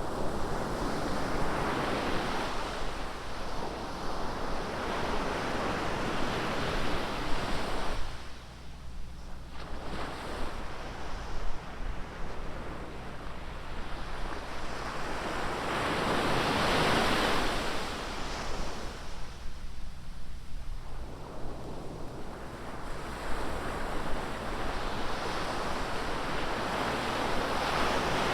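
Ocean surf: waves breaking and washing up the beach in slow swells, one surge every several seconds, with a low rumble and some wind buffeting the microphone.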